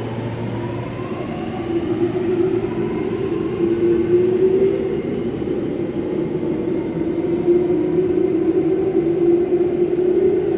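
Alstom Metropolis driverless metro train pulling out of the platform, its electric traction motors giving a steady whine with a strong low hum and fainter higher tones over rumbling running noise; it grows somewhat louder after about two seconds.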